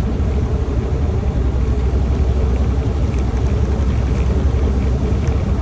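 Steady low drone of a semi-truck's engine and tyres heard inside the cab while driving.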